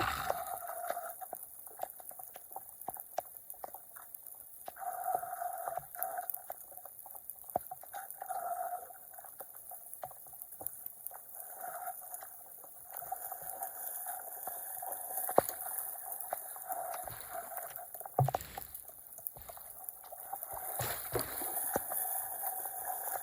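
Flood water draining away, gurgling and trickling unevenly, with a few sharp clicks.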